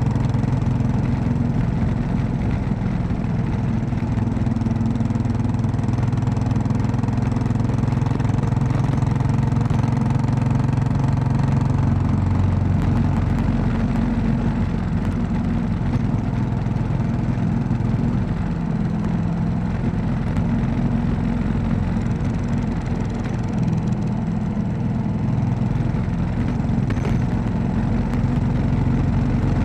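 Royal Enfield Classic 500's single-cylinder four-stroke engine running steadily while riding, its note shifting in pitch a few times.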